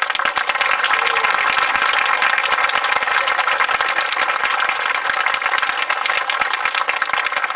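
Audience applauding: dense, steady clapping that starts abruptly at the end of a performance.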